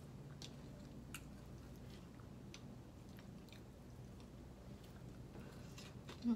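A person chewing papaya salad, with faint scattered wet mouth clicks over a steady low background hum.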